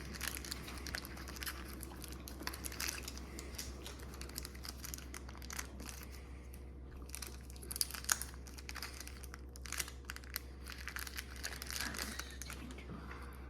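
Foil booster-pack wrapper crinkling as it is pulled open and the trading cards inside are handled. The crackles and clicks come irregularly, with a couple of louder snaps about eight seconds in.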